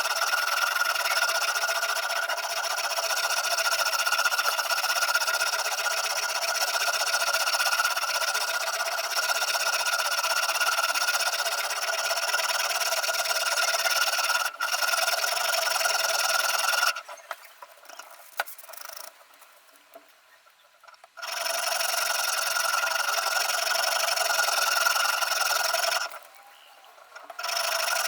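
Sharpening stone of a Ruixin Pro RX-008 guided sharpener rubbing continuously along the edge of a VG10 Damascus steel chef knife, a steady scraping rasp. It stops for about four seconds past the middle and briefly again near the end.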